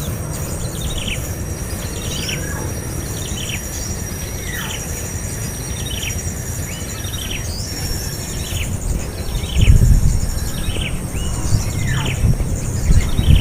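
A small bird repeating a short, high, down-slurred chirp about every three-quarters of a second, over a steady high insect whine. Low thumps about ten seconds in and near the end are the loudest sounds.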